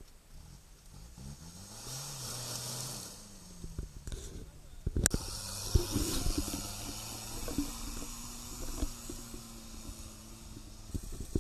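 Off-road 4x4 engine revving up about a second in, then running steadily, with scattered knocks and a sharp click about five seconds in.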